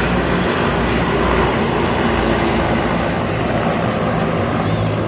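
Military aircraft flying overhead: loud, steady engine noise with a low hum beneath it.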